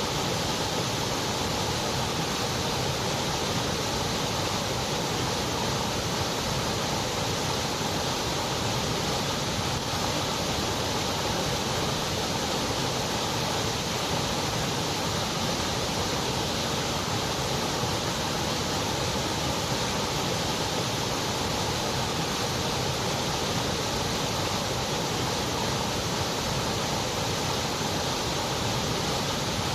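Continuous white noise: a steady, even hiss with no changes.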